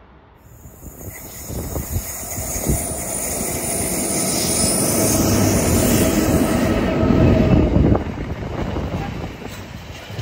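A Freightliner container train hauled by two Class 90 electric locomotives passing close by: a rush of wheel and rail noise that builds to its loudest as the locomotives go by, eases a little about eight seconds in, then carries on as the container wagons rumble past, with a few sharp clicks.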